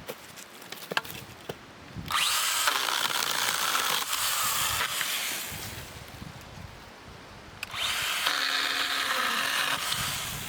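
A small power tool runs twice, for about three to four seconds each time, with a quieter pause between the two runs.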